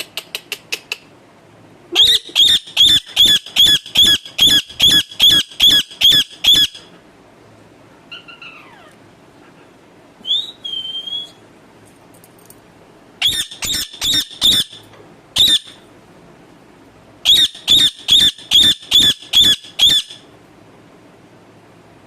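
Pet parakeet screeching in three runs of sharp, evenly repeated calls, about three a second, with a couple of single calls in the pauses between the runs.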